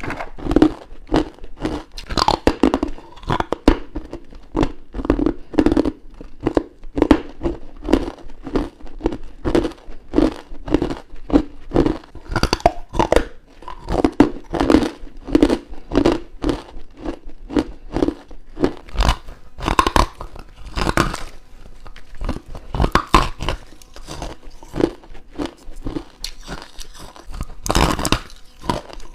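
Close-miked crunching of freezer frost and crushed ice being bitten and chewed, a rapid run of crisp, squeaky crunches, about two or three a second.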